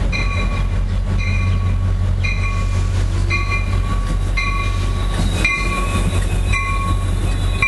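A diesel passenger locomotive rumbling at a station with its bell ringing, an even ring about once a second.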